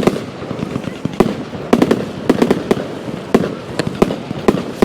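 Fireworks going off in a rapid, irregular volley: about fifteen sharp bangs and cracks, several coming in quick clusters.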